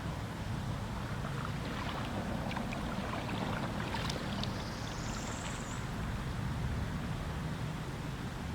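Outdoor ambience on the water from a kayak: a steady low rumble of wind on the microphone with light water noise, a scatter of small clicks and knocks in the middle, and a faint high rising whistle about halfway through.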